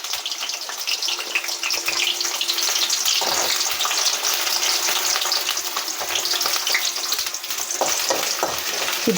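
Chopped ginger and garlic sizzling and crackling steadily in hot oil in a kadai, with a few soft knocks, such as a spatula against the pan, in the second half.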